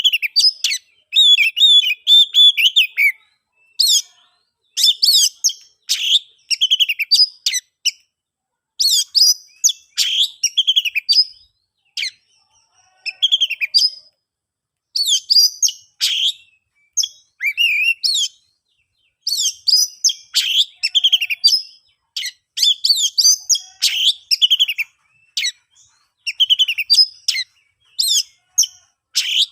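Oriental magpie-robin (kacer) singing loud, full song: fast phrases of varied whistles and chirps, broken by short pauses of under a second.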